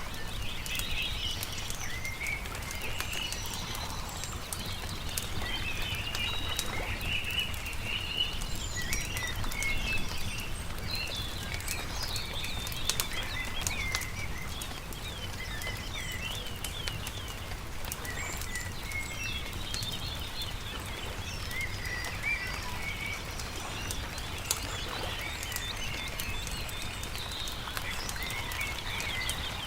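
Several small birds chirping and trilling over the sharp pops and crackles of a wood campfire, with a steady low rumble underneath.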